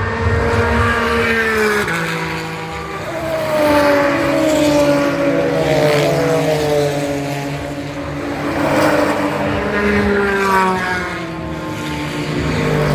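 GT race car engines running hard as several cars pass one after another, the engine notes sliding up and down in pitch, with a sharp drop about two seconds in as a car shifts gear.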